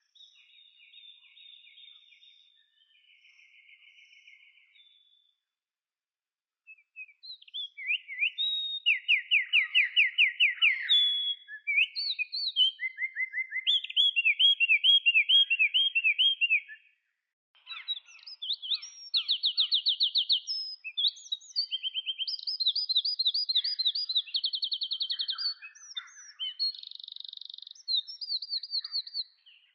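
Songbird singing a varied song of rapid trills and fast repeated notes. It starts faint and broken off, then turns loud and nearly continuous from about seven seconds in, with a short pause in the middle.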